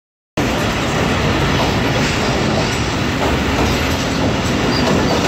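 Passenger train coach running over a steel girder rail bridge, heard from the open coach doorway: a steady, loud rumble and clatter of the wheels on the track. It starts suddenly about a third of a second in, after a moment of silence.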